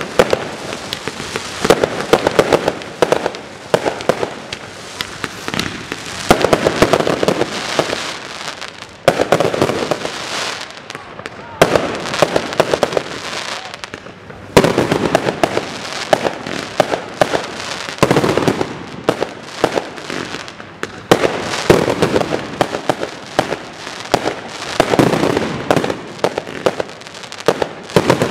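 Fireworks display: volleys of sharp bangs and crackling from rising comets and bursting aerial shells, coming in clusters every couple of seconds with brief lulls between.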